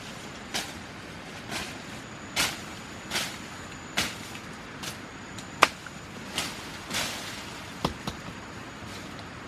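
A knife or machete swung again and again, swishing and striking wood or plants about once a second, with one sharper crack about halfway through.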